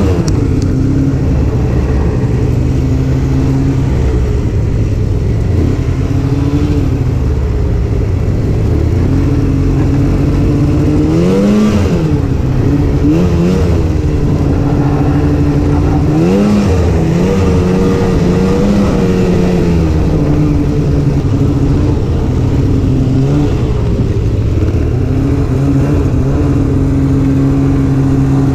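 Snowmobile engine running steadily under way, its pitch rising and falling briefly with throttle changes about a third of the way in and again just past the middle.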